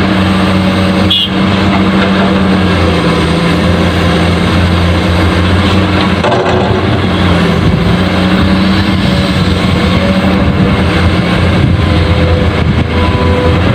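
Truck engine running steadily, its pitch stepping a little up and down a few times.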